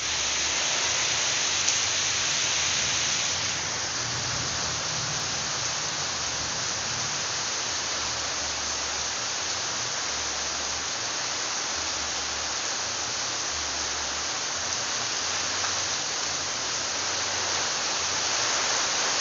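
Heavy rain falling steadily, an even hiss, a little louder for the first three or four seconds.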